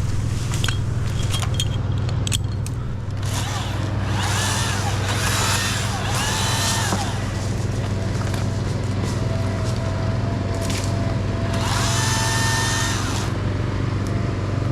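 Chainsaw cutting a limb in bursts, each whine rising, holding and falling. The first burst comes about four seconds in, with another near the end, over a steady low hum.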